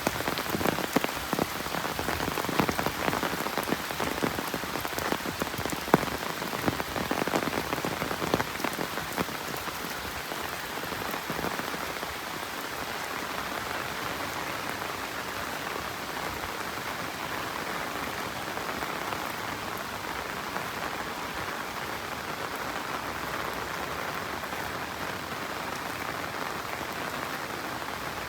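Steady rain falling, with many distinct drops striking close by during the first ten seconds, one especially sharp near six seconds in, before it settles into an even hiss.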